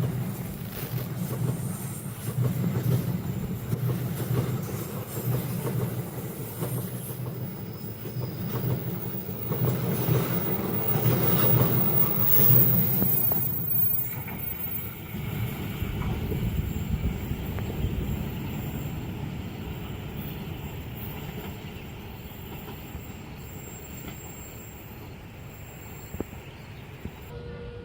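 A train passing over a level crossing at speed, its wheels clattering over the rail joints with a heavy low rumble. About thirteen seconds in, the rumble falls away and the train's sound dies down to a quieter, steady noise.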